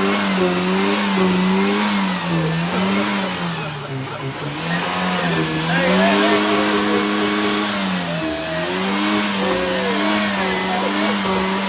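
Car engine revving and held at high revs, its pitch dropping and climbing back several times.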